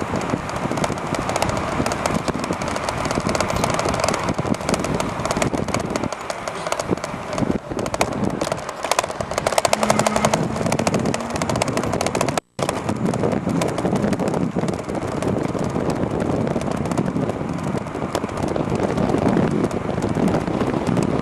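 Wind rushing over the microphone and road noise from a moving e-bike, with a stretch of rapid rattling near the middle. The sound cuts out for a split second about twelve seconds in.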